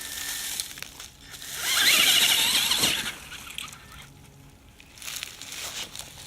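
Electric radio-controlled truck's motor whining as it revs hard, with a rising and falling squeal for about a second and a half starting about one and a half seconds in.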